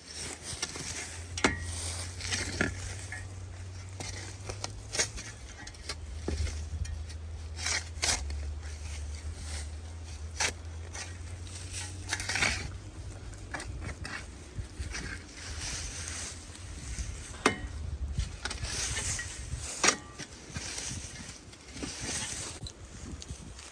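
Scattered knocks, clinks and scrapes of loose items being handled and moved about, over a low steady hum that stops about three quarters of the way through.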